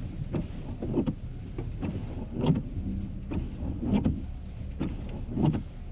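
Footsteps in snow, about one or two steps a second, over a steady low hum.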